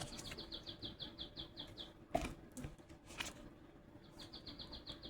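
A small bird calling: a fast run of about a dozen short, high chirps, about seven a second, repeated near the end. Two soft knocks come in between.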